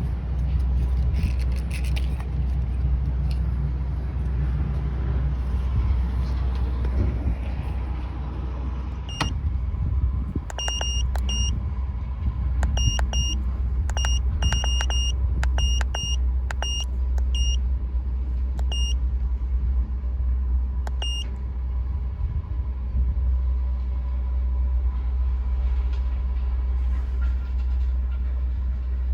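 Vauxhall Astra petrol engine idling with a steady low rumble, just fitted with new spark plugs to test whether a cylinder 2 misfire is cured. A run of short, high electronic beeps sounds irregularly through the middle.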